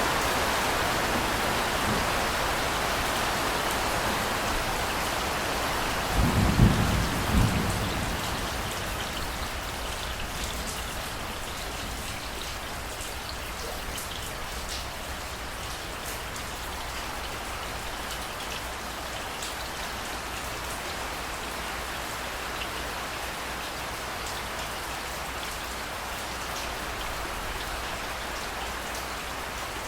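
Steady heavy rain falling, with a single low clap of thunder about six seconds in that rumbles for a second or two.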